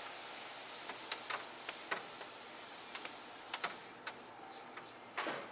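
Kärcher car wash gantry passing over the car for its final rinse, heard from inside the car: a steady faint hiss of spray with scattered sharp ticks of water striking the body and glass.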